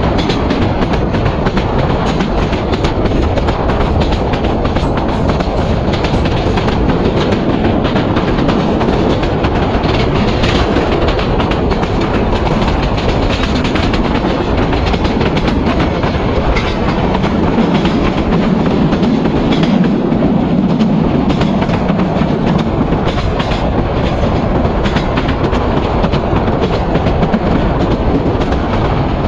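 Passenger train of Indonesian-built PT INKA intercity coaches running at speed, heard at an open coach window: a steady rumble and rush with the clickety-clack of wheels over rail joints. A deeper hum joins for about five seconds past the middle.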